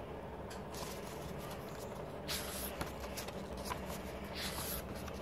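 Paper and card packaging of a K-pop album being handled, in short rustles three or four times, over a steady low hum.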